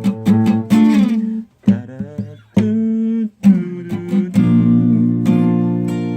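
Acoustic guitar strummed: a run of quick strokes, a few separate chord strikes, then a chord left ringing near the end.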